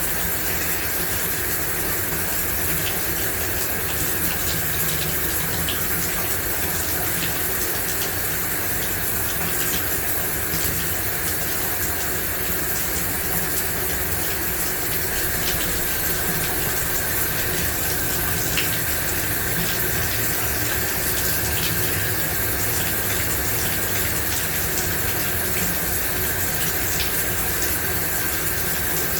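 Shower running: a steady spray of water falling and splattering, with faint scattered drip-like ticks in it.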